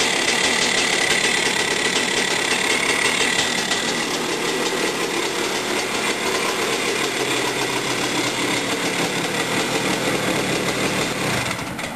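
Husqvarna XC250 two-stroke single-cylinder dirt bike engine running steadily at idle with a fast, even firing rhythm; its ignition has been converted to GM HEI electronic ignition.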